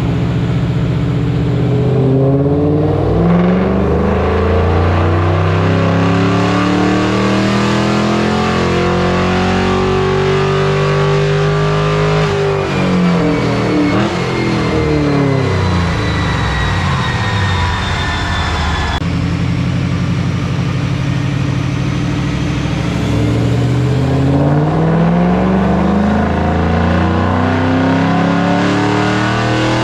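A 2006 Ford Mustang GT's 4.6-litre three-valve V8, with a cold-air intake and side-exit exhaust, running on a chassis dyno. It climbs steadily in revs under load, drops back about twelve seconds in, holds, then climbs again near the end.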